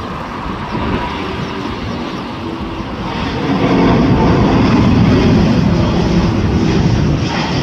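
Jet airliner engines running, a loud steady rumble that swells from about three seconds in as the aircraft passes nearer.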